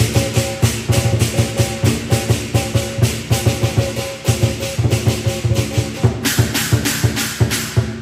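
Lion dance percussion: a large lion dance drum beaten in a fast, steady rhythm with clashing cymbals and a ringing gong.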